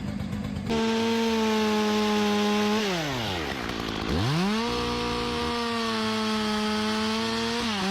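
Two-stroke chainsaw engine held at full throttle with a steady high whine. It is let off to wind down to idle just under three seconds in, revved quickly back up to full throttle about a second later, and let off again near the end.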